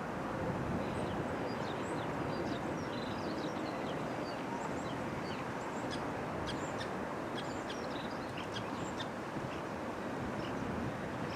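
Small birds chirping, many short high notes scattered throughout, over a steady background noise.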